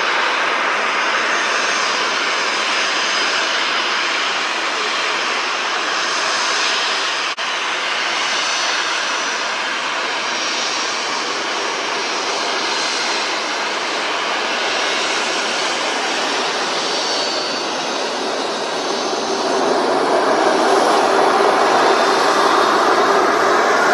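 Jet airliner's engines at takeoff power: a loud, steady jet noise with a faint high whine, growing louder about 20 seconds in as a higher whine rises.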